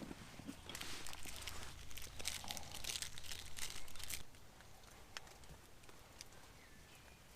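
Rustling and crinkling handling noises for about four seconds, then quieter with a few sharp clicks.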